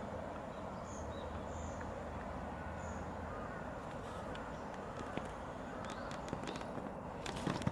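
Steady outdoor background noise with a run of sharp clicks toward the end, the loudest about seven seconds in.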